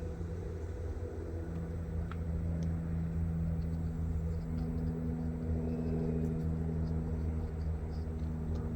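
An engine running steadily, a low even hum at constant pitch, with a couple of faint small clicks about two seconds in.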